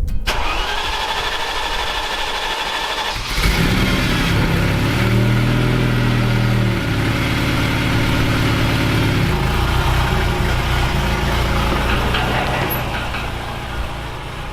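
Ferrari 308's V8 cold-starting: it cranks for about three seconds, then catches with a sudden loud burst and settles into a fast cold idle whose pitch shifts a couple of times.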